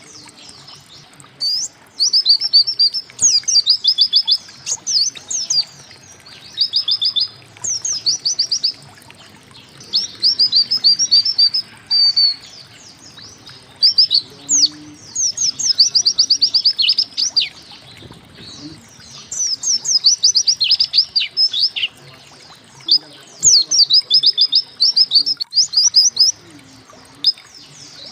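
A white-eye (pleci) singing in bursts of rapid, high chirping notes, many sweeping quickly downward. The phrases last about a second, with short pauses between them.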